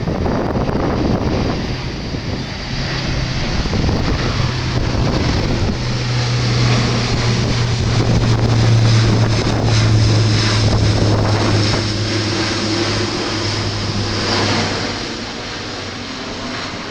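Airbus A400M's four turboprop engines running as the aircraft passes: a steady low propeller drone that grows to its loudest about halfway through, then fades near the end. Wind buffets the microphone.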